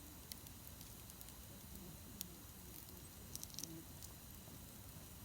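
Wood campfire crackling quietly, with scattered sharp pops and a short cluster of snaps about three and a half seconds in.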